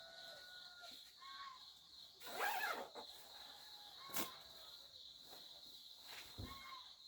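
Rural outdoor ambience: a steady high insect buzz with short bird chirps. A louder bird call comes about two and a half seconds in, and a sharp knock a little after four seconds.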